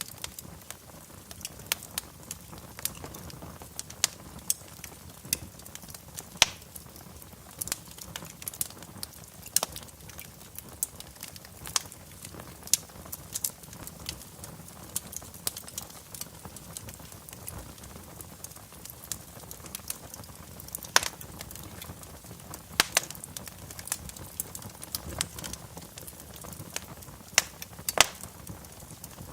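Wood fire crackling in a fireplace: irregular sharp pops and snaps, several a second, a few louder ones near the end, over a steady low rumble of the flames.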